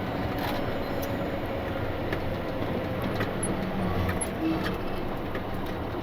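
A rollback tow truck's engine runs steadily at low speed, with a low rumble and hum under road and cab noise. A few faint light clicks sound over it.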